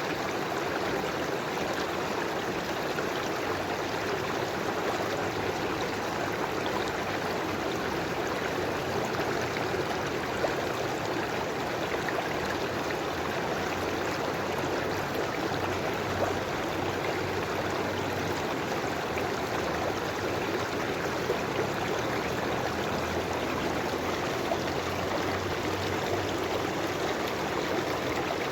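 A river flowing steadily, an even rush of water with gurgling and occasional small splashes.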